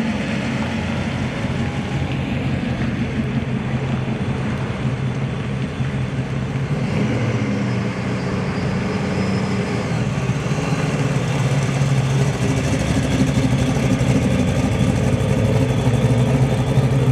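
Car engine running at low revs with a steady low rumble, getting louder in the second half.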